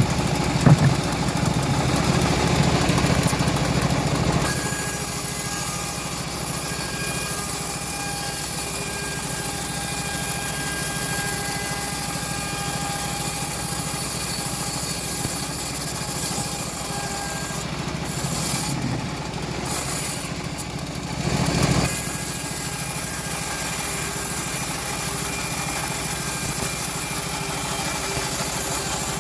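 Engine-driven band sawmill cutting an old teak log: the engine runs steadily under load while the blade saws through the wood. There is a sharp knock about a second in, and the sound changes around four and a half seconds in.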